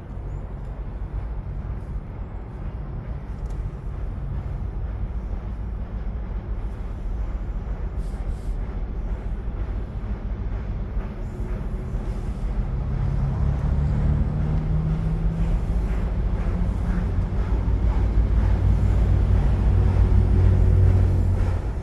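EMD MP15AC diesel switcher locomotives approaching, their 12-cylinder two-stroke engines making a low rumble that grows steadily louder, strongest near the end.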